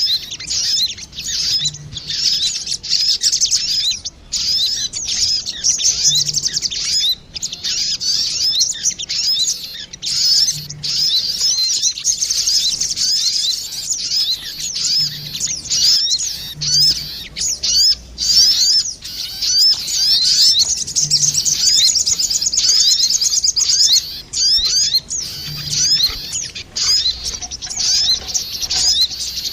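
Female and male sogon birds calling back and forth in a lure recording: a dense stream of rapid, high twittering chirps with only short breaks.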